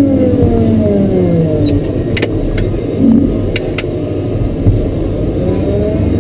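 Cat 140K motor grader's diesel engine coming off the throttle, its pitch falling over the first second and a half, then running lower, and revving back up near the end. A few sharp clicks are heard in the middle.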